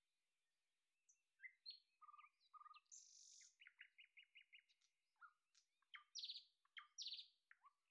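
Faint birdsong: several small birds chirping and whistling in short, varied phrases, starting about a second in, with a quick run of repeated notes midway.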